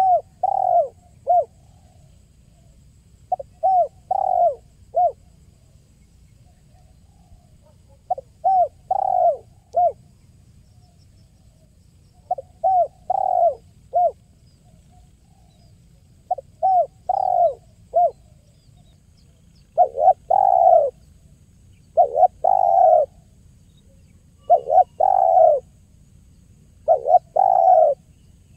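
Spotted dove (tekukur) cooing: short phrases of a few quick coos, repeated every two to four seconds, the later phrases fuller and run together.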